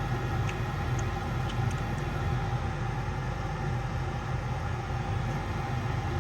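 American Standard gas furnace running after a restart, a steady low mechanical hum from its motors with a few faint ticks in the first two seconds.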